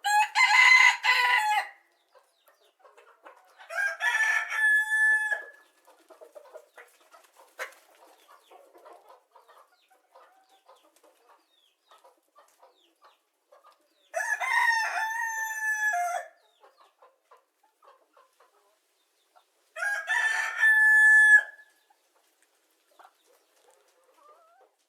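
Rooster crowing four times, each crow about two seconds long, with long pauses between crows.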